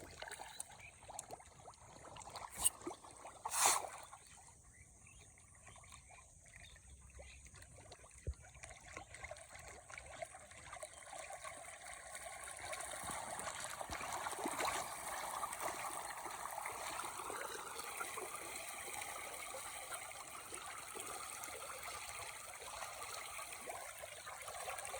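Water trickling and running steadily, growing louder about halfway through, with two short knocks a few seconds in.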